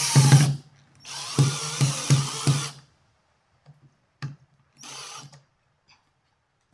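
Power drill running in two short bursts, with a regular knocking about three times a second, followed by a few brief faint clicks and rattles.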